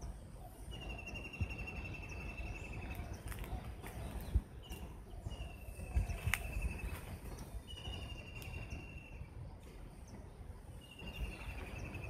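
A small bird calling over and over, each call a long, fast trill of repeated notes that falls slightly in pitch, about four phrases a few seconds apart. Occasional low thumps sound underneath.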